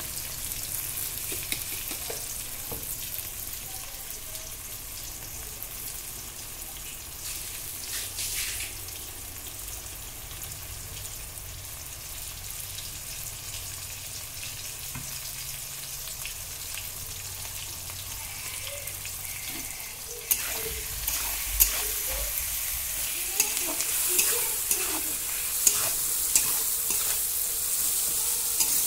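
Onions, tomatoes and spices sizzling in hot oil in a steel kadai. About 20 seconds in the sizzle gets louder and a metal spoon starts stirring, scraping and clicking against the pan.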